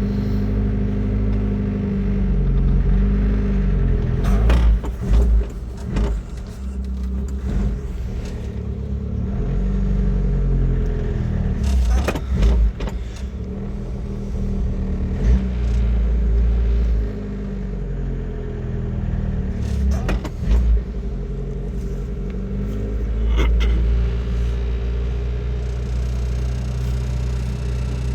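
Suzuki Samurai's four-cylinder engine idling steadily a few minutes after a cold start, still warming up, with a few short knocks or clatters along the way.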